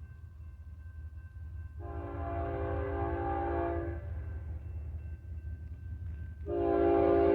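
BNSF ES44DC diesel locomotive's air horn sounding two blasts: one of about two seconds about two seconds in, then a louder one starting near the end. A steady low rumble from the train runs underneath.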